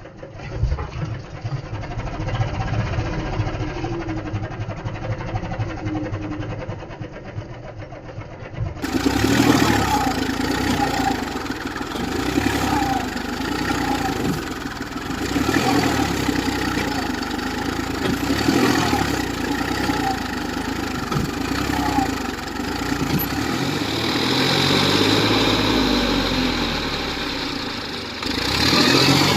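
Tractor engine running steadily. The sound changes abruptly about nine seconds in to a brighter, louder recording.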